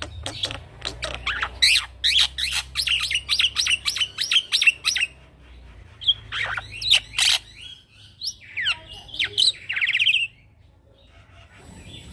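Young male black-winged myna (jalak putih) singing: a fast run of sharp chipping notes for the first few seconds, then a few louder calls and a short buzzy rattle, falling quiet about two seconds before the end.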